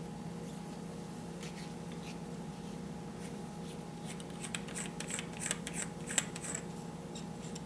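Small metal air-rifle parts being handled, giving a scatter of light clicks and ticks, most of them in the second half, over a steady low hum.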